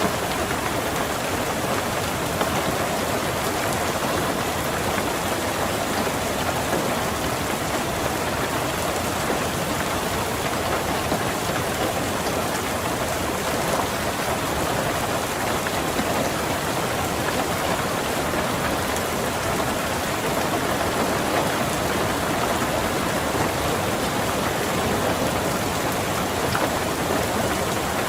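Rain falling steadily on a car's roof and windows, heard from inside the car.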